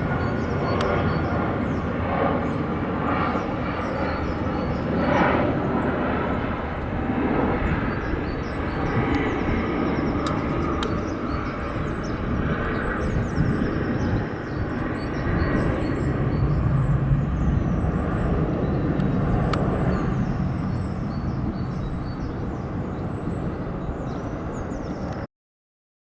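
Dassault Falcon 900LX business jet flying past, the steady rushing roar of its three turbofan engines, heaviest in the low end a little after the middle, cutting off suddenly near the end.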